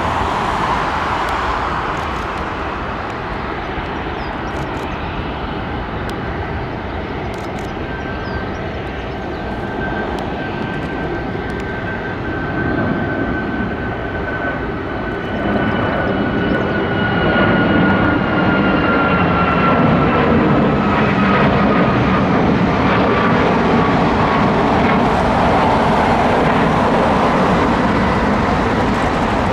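Jet airliner's engines at takeoff power, a steady rushing noise with a high whine that slowly falls in pitch. The sound grows louder about halfway through.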